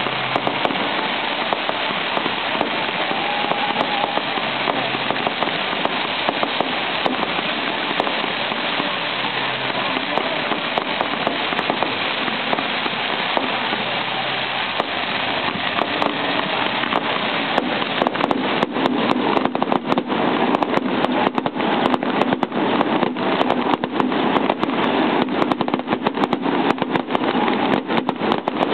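Fireworks going off: a continuous hiss with scattered pops, then, from about two-thirds of the way in, a dense rapid string of sharp cracks.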